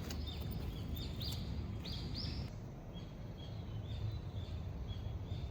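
A bird chirping in runs of short high notes that drop in pitch, about two a second, with thin steady peeps between them, over a steady low wash of outdoor rain noise.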